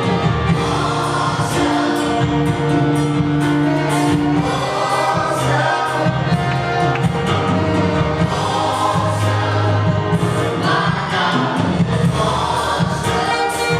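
Gospel worship music: a choir or worship team singing over a band with steady bass and drums.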